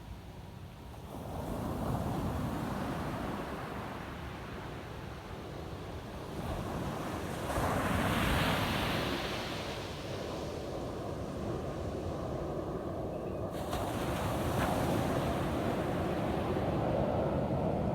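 Ocean surf washing onto a beach: a steady hiss and rumble of waves, with one wave breaking about a second in, a louder one around eight seconds, and another near the end.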